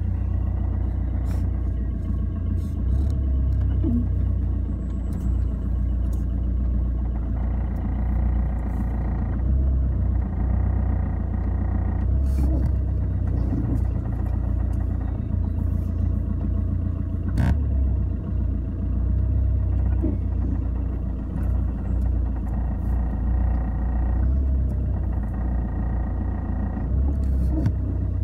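Fiat Albea 1.3 Multijet turbodiesel engine running steadily with a knocking noise from the engine, with a few sharp clicks scattered through it.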